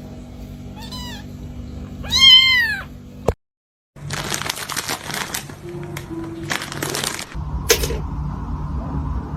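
A house cat meows twice, a short faint meow and then a louder, longer one; after a brief gap a different stretch of steady noise follows, with a sharp click near the end.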